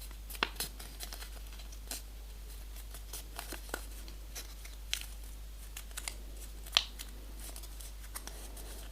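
Paper being folded and creased by hand: scattered light crinkles and taps, the sharpest about seven seconds in, over a low steady hum.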